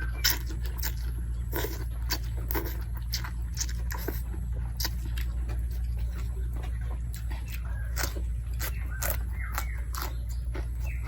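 A person eating noodle soup close to the microphone: wet chewing and mouth smacks, with many short, irregular clicks, over a steady low hum.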